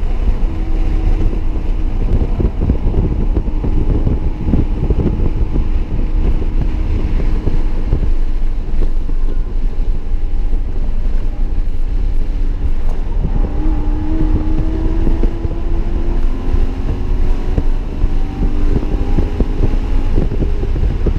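BMW E92 M3's V8 with an aftermarket X-pipe exhaust running hard on track, heard from inside the cabin under heavy road and wind rumble. The engine note climbs in pitch from about halfway through as the car accelerates.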